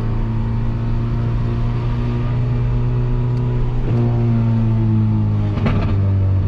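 Peugeot 206 1.4 four-cylinder engine running through a straight-pipe exhaust with no muffler, a steady drone at fairly even revs while driving. There are a few brief clicks near the end.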